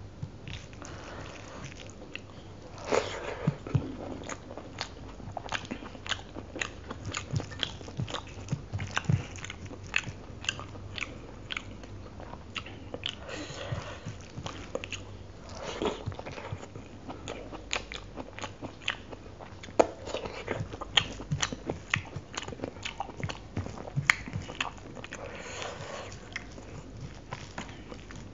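Close-miked eating of chicken curry with rice by hand: steady chewing with many sharp wet mouth clicks and smacks, and now and then a few seconds of soft squishing as rice is mixed into the curry with the fingers.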